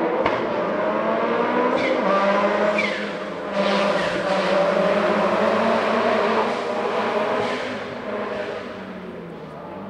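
Racing car engine under hard acceleration on a hill climb, its revs rising and dropping, then fading away near the end.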